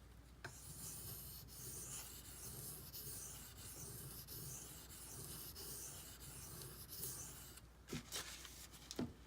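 Benchmade Griptilian's D2 steel blade rubbed back and forth on a sharpening stone, a faint scraping hiss in even strokes about one a second. The strokes stop about three-quarters through, followed by a few light knocks.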